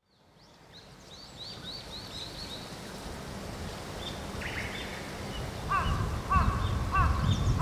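Birds calling as the sound fades in: a quick run of high chirps, then in the last couple of seconds a repeated lower call about twice a second. Under it a low rumble grows near the end.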